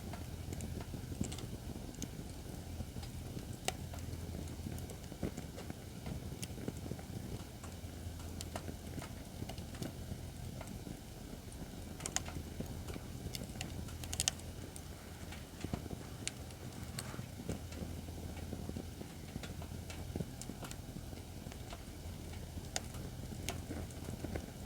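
Acacia firewood burning in a fire pit stand: scattered crackles and sharp pops, the loudest about twelve and fourteen seconds in, over a steady low rumble.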